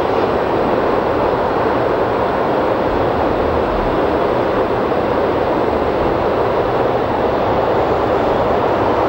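Train passing on the line, a loud, steady rolling noise of steel wheels on rail that holds even throughout.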